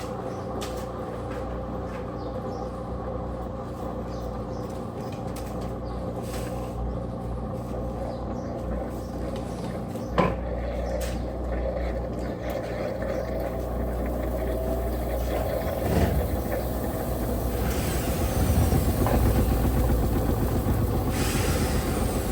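Electrolux Turbo Capacidade Premium 15 kg top-loading washing machine running with a steady motor hum, a sharp click about ten seconds in, and growing louder with added hiss over the last few seconds.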